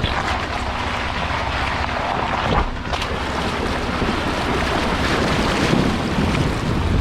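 A vehicle fording a river in two-wheel drive: water rushing and splashing against it over a steady low engine rumble, growing somewhat louder in the second half.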